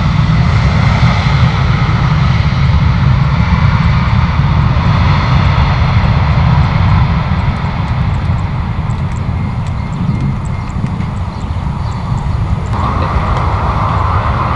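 Jet airliner's engines, a loud steady rumble that eases off somewhat in the second half, with an abrupt change in the sound near the end.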